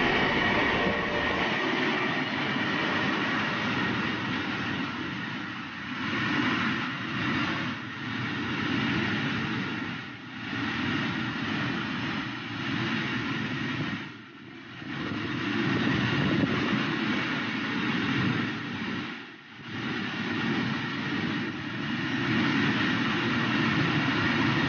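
Long freight train of open goods wagons rolling past at speed: a steady rumble and clatter of wheels on the rails. The noise dips briefly twice in the second half.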